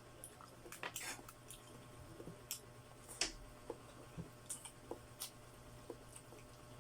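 Eating sounds of adobo chicken feet being chewed and sucked: irregular wet smacks and clicks, about a dozen over a few seconds.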